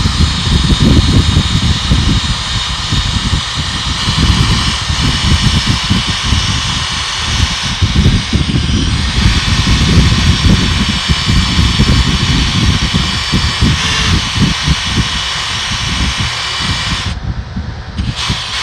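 Wire brush scrubbing the surface of loader control-valve parts, a steady hiss that drops out briefly near the end, over a heavy low rumble.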